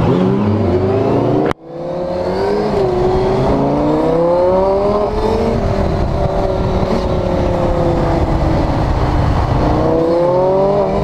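A motorcycle engine and a Lamborghini's engine accelerating together, revving with pitch climbing, cutting out for an instant about a second and a half in, then climbing again, holding steady, and rising once more near the end.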